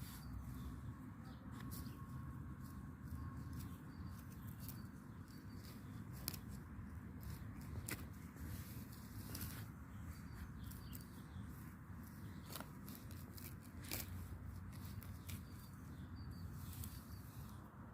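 Faint outdoor ambience: small birds chirping in short repeated calls, with scattered clicks and rustling over a low rumble.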